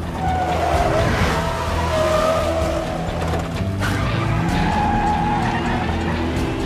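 Car-chase sound mix: car engines running hard and tyres squealing in several wavering bursts, over a low music score, with an abrupt cut a little past the middle.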